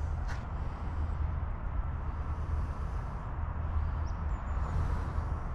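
Outdoor ambience: a steady low rumble with a soft hiss, and a couple of brief high bird chirps about four seconds in.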